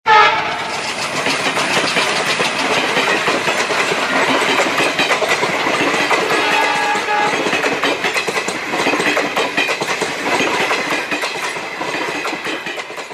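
Continuous clattering, rattling mechanical noise packed with rapid clicks. It starts suddenly with a loud hit, holds steady, and fades away near the end.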